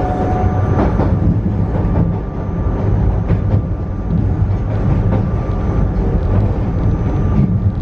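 Narrow-gauge Yokkaichi Asunarou Railway electric train running at speed, heard from inside the front of the car. There is a steady low rumble with a thin high whine over it, and now and then a sharp clack of the wheels.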